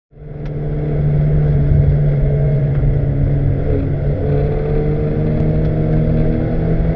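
A Lotus race car's engine running steadily, heard from inside the cockpit, fading in over the first second.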